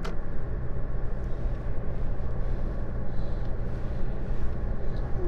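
Third-generation Toyota Tacoma driving on the highway: steady engine and road drone.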